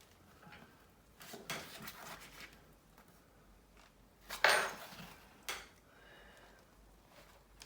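Small metal tools and screwdriver bits being handled on a desk: scattered light rustles and clicks, with one sharp metallic click about four and a half seconds in and a smaller one a second later.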